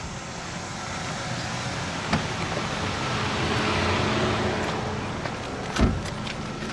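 A car passing by, its engine and tyre noise swelling to a peak about halfway through and then fading. A low thump comes near the end.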